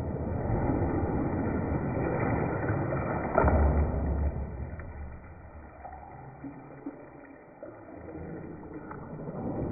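Water sloshing and swirling in a bathtub, louder in the first half, with a dull knock about three and a half seconds in.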